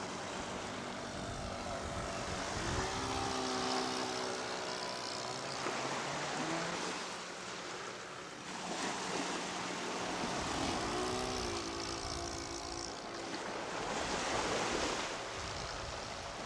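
Radio-controlled scale Noorduyn Norseman floatplane's Saito 100 four-stroke glow engine in flight, its pitch sliding up and down twice as the model flies by, over a steady rush of wind and water.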